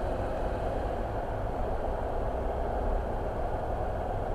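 Steady running noise of a car being driven: engine and tyres on the road, an even rumble with no changes.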